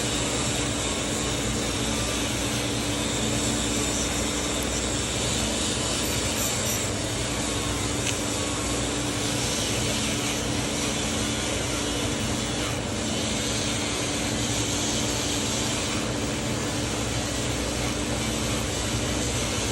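Dremel rotary tool running steadily at high speed, a constant motor hum with a hiss over it, as it scrubs rust and gunk off a carbon-steel pocket knife.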